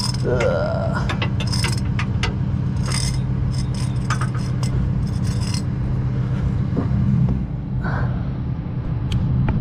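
Metal clinks and rattles of tow chains and hooks being handled, over the steady low hum of an idling engine. The clinks come thick for the first five seconds or so, then only a few more near the end.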